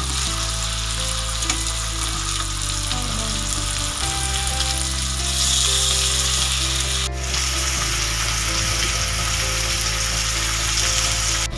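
Chicken fillets sizzling in hot oil in a nonstick grill pan, a dense steady crackling hiss that grows louder for a couple of seconds near the middle. Soft background music plays under it.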